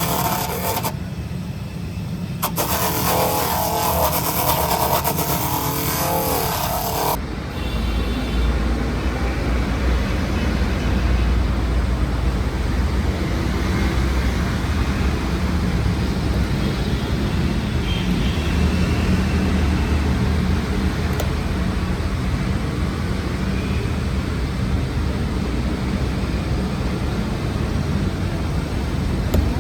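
An engine running with a steady low rumble. For the first seven seconds other sounds with wavering tones lie over it, then they cut off abruptly, leaving the rumble alone.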